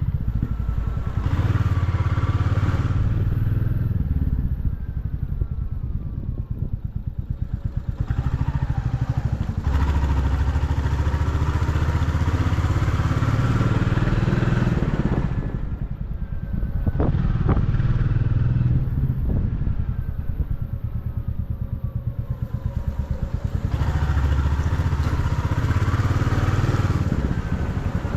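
Motorcycle engine running while riding, the engine pitch rising and falling several times as the revs change. There is a single sharp knock about two-thirds of the way through.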